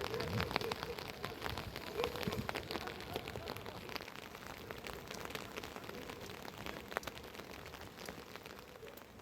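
Rain falling, with many separate drops striking close by in a steady, irregular stream.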